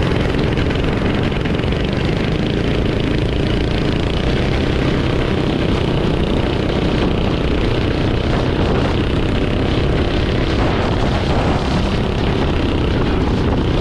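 Small engine of a pit bike or go-kart running steadily while riding, with heavy wind buffeting on the microphone.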